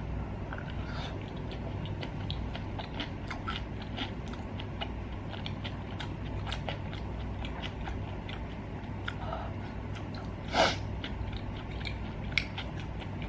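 Close-miked chewing of a mouthful of spicy stir-fried rice cakes with beef, with many small wet mouth clicks. A single brief, louder noise comes about ten and a half seconds in.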